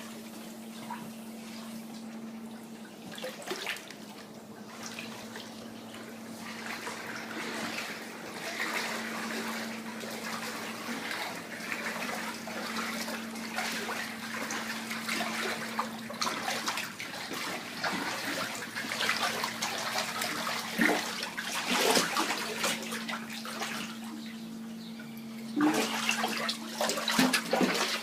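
Floodwater in a basement splashing and sloshing irregularly, busier in the second half, over a steady low hum.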